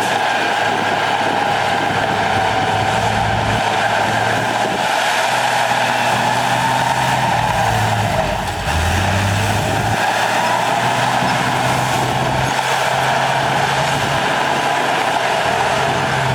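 Heavy diesel engine of earthmoving machinery running steadily, with a broad mechanical noise over it. The engine note drops briefly a little past eight seconds, then comes back up.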